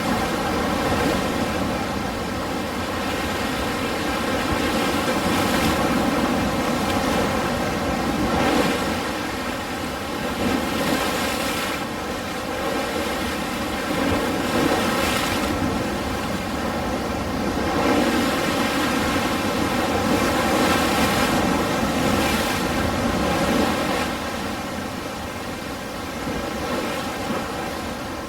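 Ocean surf: a continuous wash of waves that swells and eases every few seconds.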